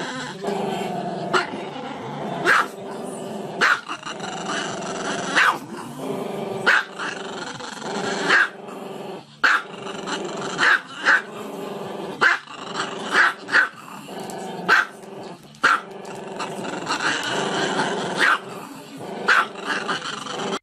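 Small dog, head tipped back, giving long drawn-out growling calls broken by short sharp barks every second or so; the barks are the loudest sounds.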